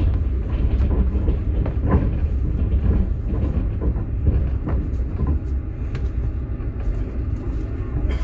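Passenger train in motion, heard from inside a Russian platzkart sleeper carriage: a steady low rumble with the irregular knocking of the wheels over the rails.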